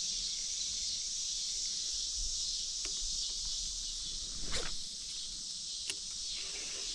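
Steady high-pitched insect chorus, with a brief rustle about four and a half seconds in and a couple of sharp clicks from handling fishing gear.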